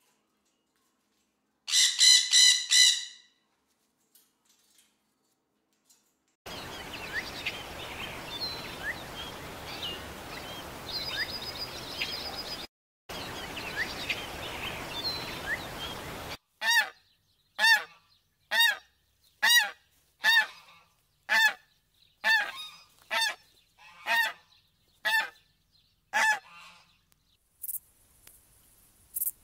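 Macaws squawking: a quick burst of four harsh calls about two seconds in. After a few quiet seconds come birds chirping over a steady outdoor hiss for about ten seconds, then a series of about eleven loud, evenly spaced bird calls, roughly one a second.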